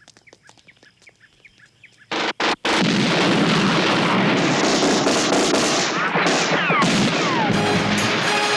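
Heavy gunfire in a movie soundtrack: after a quiet start, a few sharp bangs about two seconds in open a sustained, continuous barrage of automatic fire. A few falling whistles sound through it late on, and music tones come in near the end.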